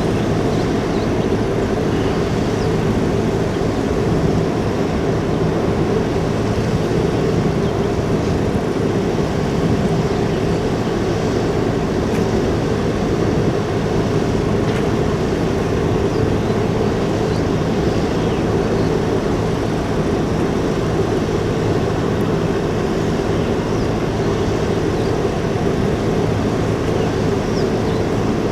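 Steady drone of a large car ferry's engines and machinery, a constant low hum with no change in pitch or level.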